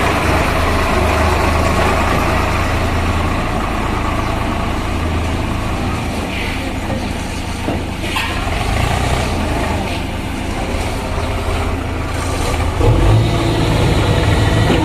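Diesel engine of a JCB backhoe loader running steadily, its engine note rising and getting louder about thirteen seconds in.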